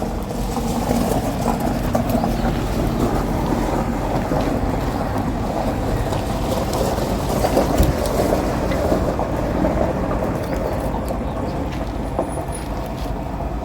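Wood campfire burning: a steady rushing sound with scattered crackles and pops.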